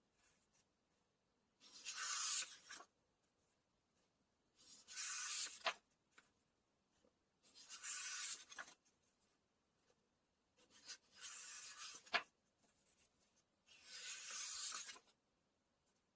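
Paper book pages being turned one at a time, five times about every three seconds: each turn is a short rustle of the page, some ending in a crisp snap as the page falls.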